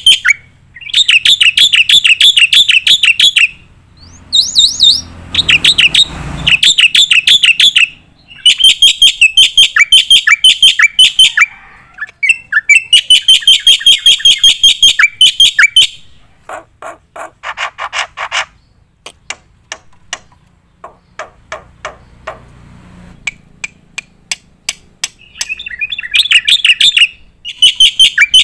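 Black-winged myna (jalak putih) singing hard in rapid-fire runs of sharp, repeated notes, each run lasting two to three seconds with short pauses between. Around the middle the song drops into a stretch of lower, spaced clicks before the fast runs return near the end.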